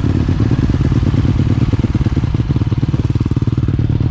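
Dirt bike engine running at low, steady revs, its firing pulses coming fast and even.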